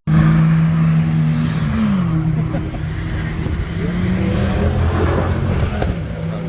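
Car engine running at steady revs; its pitch drops about two seconds in, then holds steady.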